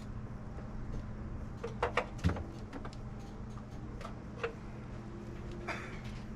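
Scattered light clicks and knocks of hand work on a jet ski's engine bay as hoses and parts are pulled free, a cluster of them about two seconds in, over a steady low hum.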